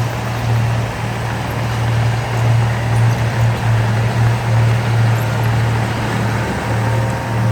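Heavy diesel engine of earthmoving equipment running under load, a steady low hum that swells and dips.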